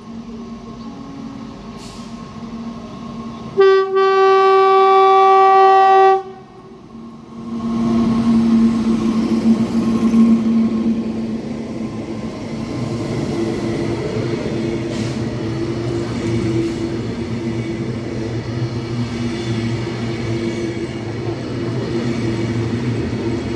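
An approaching WAG9 electric locomotive sounds its horn once, a single steady blast of about two and a half seconds, a few seconds in. Then the locomotive and the rail grinding machine's cars pass close by: a steady rumble of wheels on rail with a low mechanical drone.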